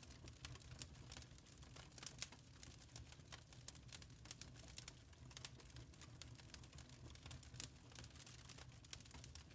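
Faint crackling of a wood fire in a fireplace: irregular sharp pops and snaps, several a second, over a low steady rumble.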